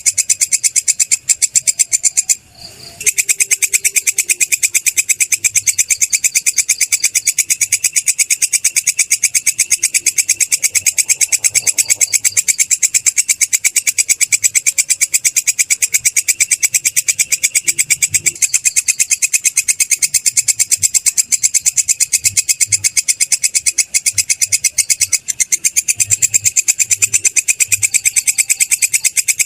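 Belalang kecek katydid stridulating: a continuous, rapid train of high, dry chirping pulses, breaking off briefly about two and a half seconds in.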